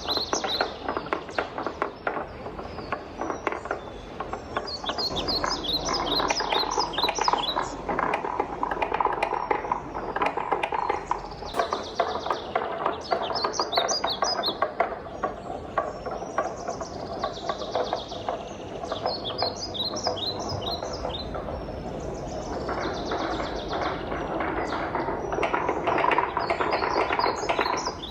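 Wooden balls rolling along a wooden marble run, a continuous rolling rumble under many small wooden clicks and knocks as the balls clatter down the tracks.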